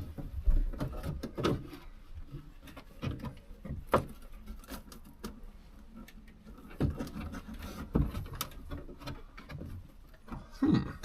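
Irregular knocks, clicks and rustles of hands pulling at a truck's headliner and plastic interior trim, feeling for the fasteners that still hold it.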